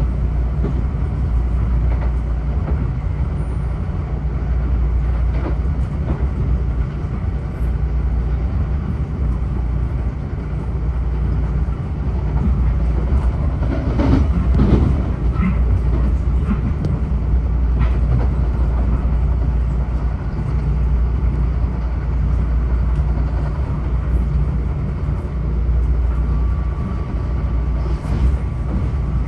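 Metro-North M7A electric multiple-unit train running between stations, heard on board: a steady low rumble of wheels on rail. A cluster of knocks comes about halfway through, and a faint steady whine joins near the end.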